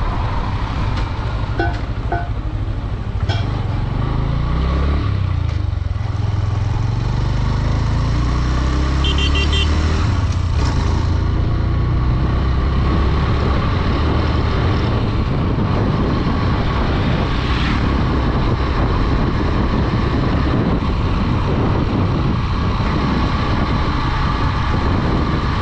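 Honda Dream 110's 110cc single-cylinder engine running while riding along a road, with a continuous low rumble. The engine pitch rises and falls between about four and ten seconds in as the speed changes.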